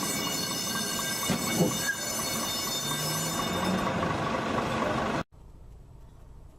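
Vehicle and traffic noise with a steady high whine over it, cutting off suddenly a little after five seconds.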